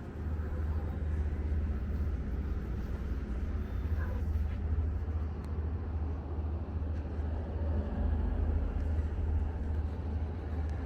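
Outdoor street ambience: a steady low rumble with a faint even hiss above it, with no clear single event.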